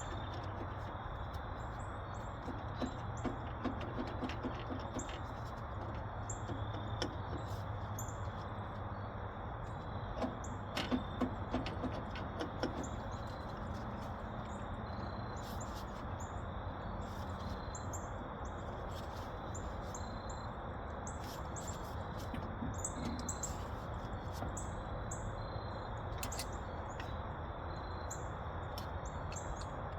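Birds chirping repeatedly over a steady outdoor hiss, with occasional sharp metallic clicks and taps from hand tools working loose a tractor carburetor.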